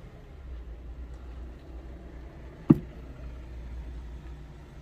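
Car engine idling with a steady low rumble, and a single sharp click about two and a half seconds in.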